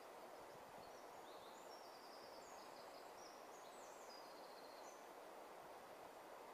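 Near silence: a faint steady hiss, with a bird singing faintly, a run of short high notes from about half a second in until about five seconds in.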